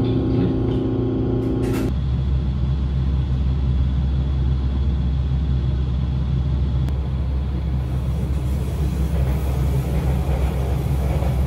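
JR Kyushu 817 series electric train running, heard from inside the passenger car as a steady low rumble with a wash of noise above it. A hum of several steady tones lies over it and cuts off suddenly about two seconds in.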